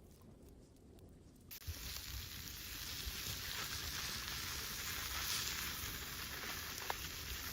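A steady sizzling hiss that starts suddenly about a second and a half in and cuts off abruptly at the end.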